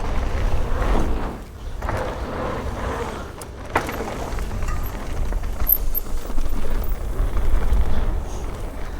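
Wind buffeting the microphone over the rumble and rattle of a mountain bike riding down a rough trail, with one sharp knock a little under four seconds in.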